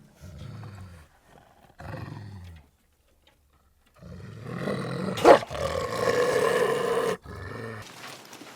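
A large animal growling twice in low, short bursts, then after a pause giving a loud roar of about three seconds, followed by one more short growl near the end.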